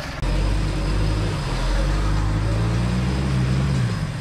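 An off-road 4x4's engine running loud under load. Its revs climb through the second half and drop back just before the end.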